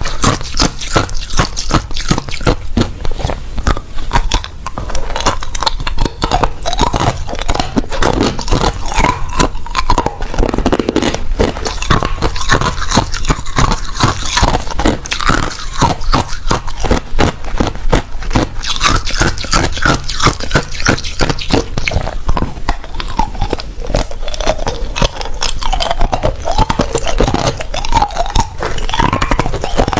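A person biting and chewing ice close to the microphone: a dense, continuous run of crisp crunches.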